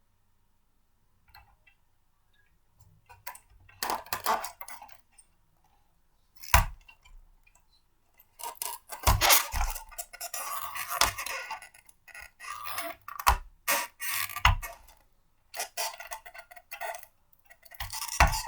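Blender parts being handled and fitted together: irregular clattering and clicking with several sharp knocks.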